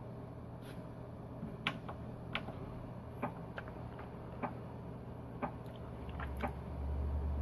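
Scattered sharp clicks at irregular intervals over a steady low electrical hum, with a low rumble rising near the end.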